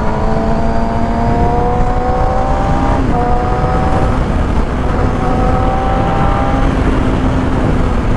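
Motorcycle engine pulling under way, its pitch rising slowly, then dropping at a gear change about three seconds in and holding steady, under a heavy rush of wind on the microphone.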